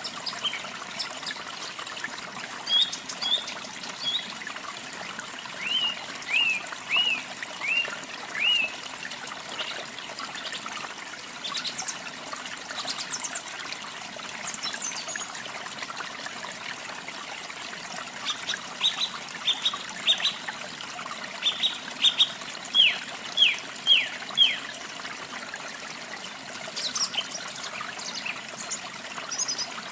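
Steady trickling of running water, with a small songbird singing over it in runs of quick downslurred chirps, one run about a quarter of the way in and a longer one past the middle.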